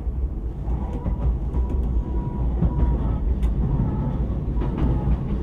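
Interior running sound of an E233-0 series electric train: a steady low rumble with a thin, slightly wavering high tone that comes in about a second in, and a few light clicks.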